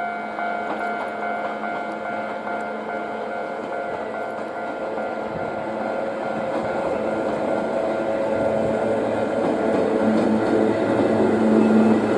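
A slow electric-hauled passenger train of blue coaches rolling past: a steady hum with several held tones over running noise from the wheels, growing louder over the last few seconds as the coaches come near.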